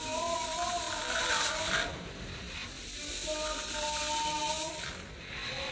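Dry granular material crumbling and crackling close to the microphone in grainy, crackly surges, loudest about a second in. Faint wavering tones sound behind it twice.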